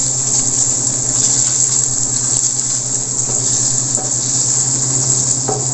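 Diced ham and garlic sizzling steadily as they sauté in a stainless steel frying pan, stirred with a wooden spatula, over a steady low hum.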